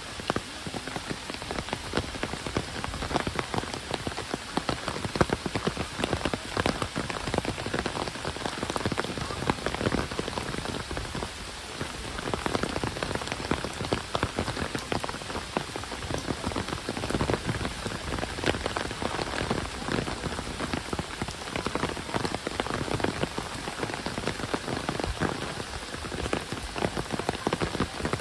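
Heavy rain falling steadily, a dense close spatter of individual drop impacts over a continuous hiss of downpour.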